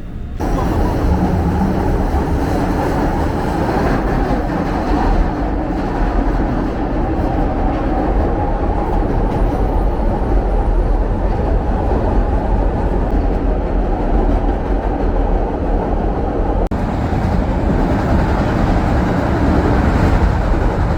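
Chicago 'L' rapid-transit train running on its tracks: a steady, loud rumble, with a split-second break about three-quarters of the way through.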